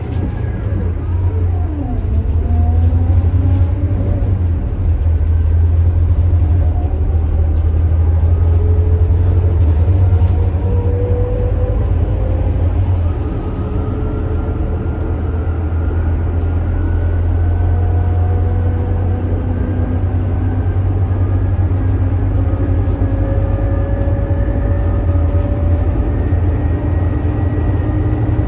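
Scania K280IB bus's 9.3-litre five-cylinder turbo diesel pulling under load with a deep rumble, a whine climbing steadily in pitch as the bus gathers speed. There is a brief dip in level and a drop in pitch about halfway through, as the ZF Ecomat automatic changes up a gear.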